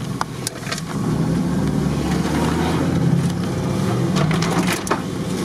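Engine of an off-road 4x4 running under light load as it crawls over rough forest ground, heard from inside the cabin. It gets louder about a second in, with scattered knocks and rattles from the bumpy going.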